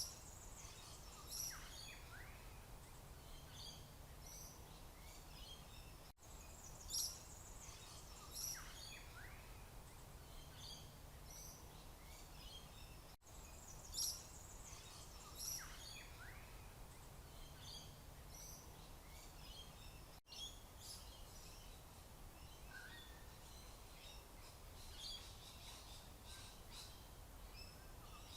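Faint birdsong: scattered short, high chirps and a few falling calls over a steady background hiss, the same few seconds of ambience repeating about every seven seconds.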